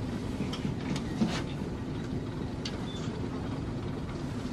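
Tour boat's engine running steadily at low speed, a continuous low drone.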